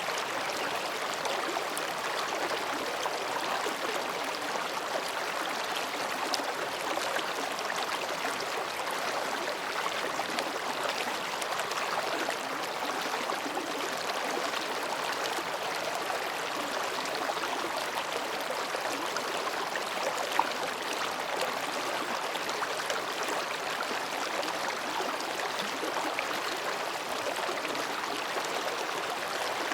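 Mountain stream babbling steadily as it flows between rocks. One brief sharp tick sounds about twenty seconds in.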